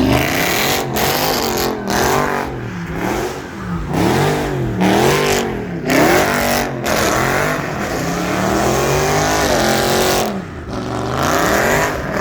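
Car engine revved hard, its pitch rising and falling over and over about once a second, with a longer climb in the middle and several brief sudden drops.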